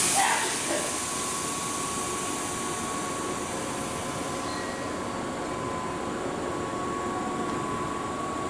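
Keihan electric train at a station platform: a loud hiss right at the start dies away within about a second, then a steady hum with a thin, steady high tone.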